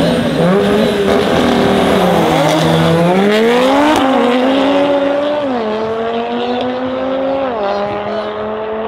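Two turbocharged 2.5-litre five-cylinder engines, in a VW Golf 7.5 R with an Audi RS3 engine swap and an Audi RS3 8V sedan, accelerating at full throttle down a drag strip. The pitch climbs through each gear and drops back at every upshift, about five shifts in all, and the sound fades slightly as the cars pull away.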